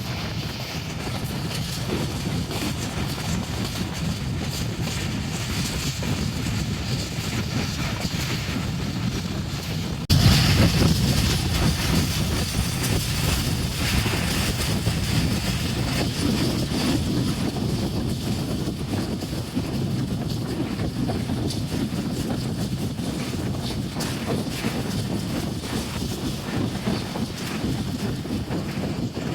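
Passenger train running at speed, a steady rumble of wheels and coach noise; the sound jumps suddenly louder about ten seconds in and stays there.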